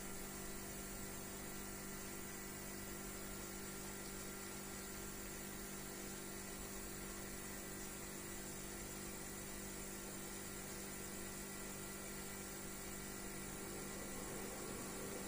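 Steady low hum with several fixed tones under an even hiss, with no distinct events.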